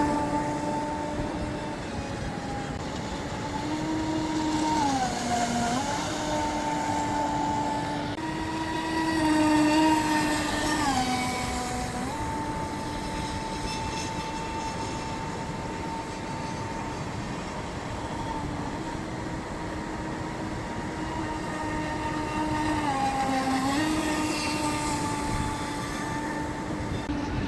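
Radio-controlled scale model boat's electric motor running with a steady whine. The pitch dips briefly three times as the throttle is eased and opened again.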